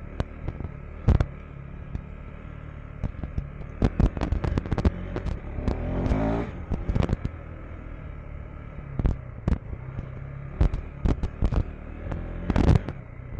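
KTM 390 Enduro R's single-cylinder engine running low on a steep, rocky descent, with many sharp, irregular clacks and knocks of the tyres and chassis over rocks.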